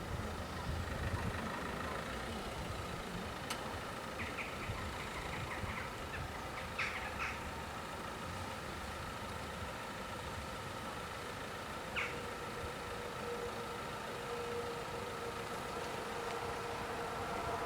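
Level crossing's electronic warning bells sounding steadily, with a few short bird chirps. A lower steady hum comes in and grows louder near the end as the train approaches.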